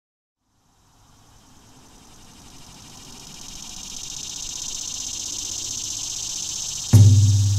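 Insects chirping in a high, pulsing chorus that fades in, then a single heavy, low drum hit near the end as music begins.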